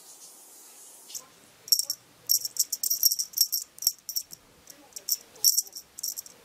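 Small bell on a feather wand cat toy jingling as the toy is shaken, in quick irregular clusters of bright rings starting about a second in.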